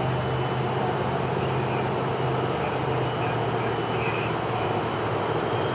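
Siemens Charger diesel locomotives idling with a steady low hum while the train stands stalled after a PTC fault.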